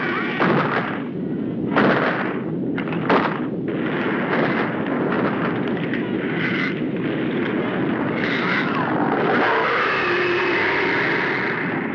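Film sound effects: a continuous heavy rumbling noise with three sharp blasts within the first three seconds.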